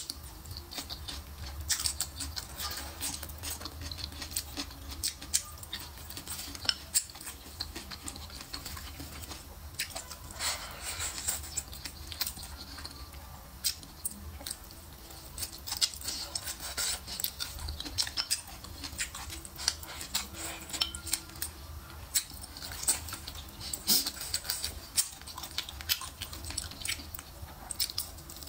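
Close-up chewing of stir-fried green peppers and shrimp: a dense, irregular run of crisp crunches and wet mouth clicks, with now and then a chopstick click on the bowl.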